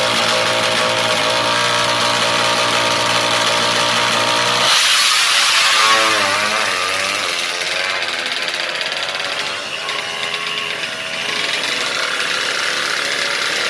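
Fuel-injected Yamaha MX King single-cylinder engine, built to 200cc, running through an HO2 Racing aftermarket exhaust: a steady idle, then about five seconds in the sound changes abruptly, with a brief louder burst and the pitch wavering up and down before it settles again.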